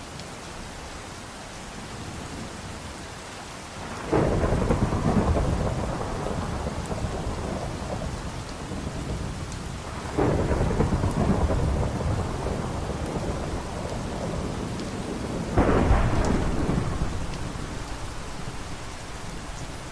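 Steady rain with thunder breaking three times, each clap sudden and rumbling away over several seconds.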